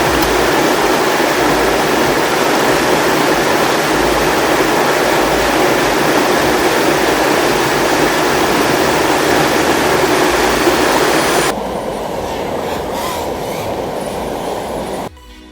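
A steady, loud rushing noise with no clear crackles or tones. About 11 seconds in its upper range cuts off abruptly and it becomes quieter, then it drops much lower again just before the end.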